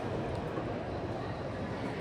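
Steady murmur of a large, echoing hall, with distant voices blended into the background noise.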